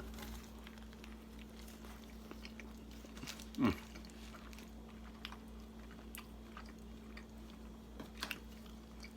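A man chewing a mouthful of curry chicken roti: faint, scattered wet mouth clicks, with one short louder sound falling in pitch about three and a half seconds in.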